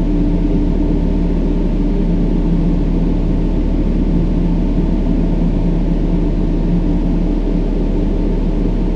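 Steady brown noise, a deep even hiss with most of its weight in the low range, with faint low humming tones running under it.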